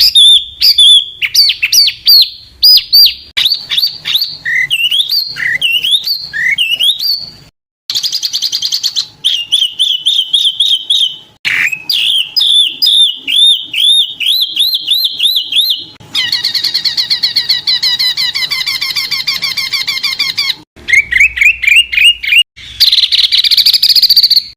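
Small songbirds singing: a masteran recording, several clips edited back to back. It opens with fast rising and falling whistles, then rapid runs of repeated chirps, a dense buzzy trill in the middle and a harsh chattering phrase at the end, each clip cutting off suddenly into the next.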